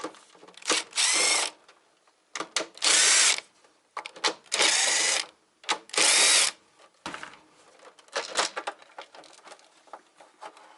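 Power drill-driver run in four short spurts, each with a rising motor whine, backing screws out of the plastic case of an APC Back-UPS RS 900. Light clicks and rattles of handling follow.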